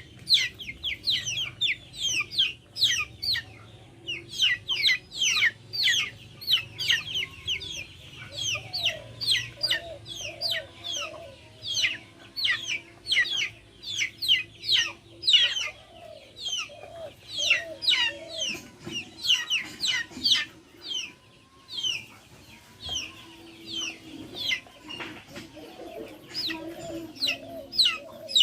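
Backyard chickens calling: a dense, continuous run of short, high, falling cheeps over softer, lower hen clucks and murmurs.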